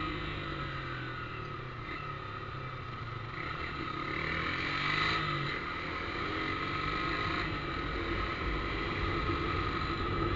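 Motorcycle engine running through a newly fitted aftermarket exhaust: a low, steady drone whose pitch drifts slightly up and down.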